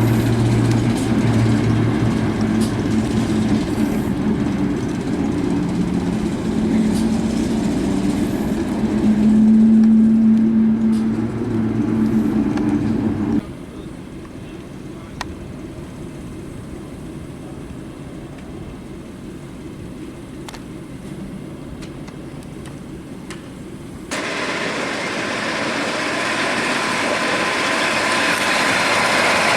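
Railway train sounds in three abruptly cut sections. First, a locomotive engine running with a steady low hum. Then, after a sudden cut, quieter background noise with a few faint ticks. Near the end comes louder rushing noise with a steady high tone.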